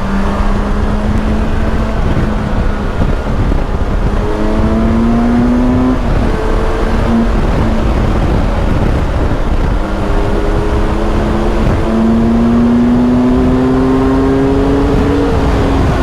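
Kawasaki superbike engine pulling hard at highway speed under heavy wind rush. The engine note climbs in pitch twice, dropping about six seconds in, then rising slowly again until near the end.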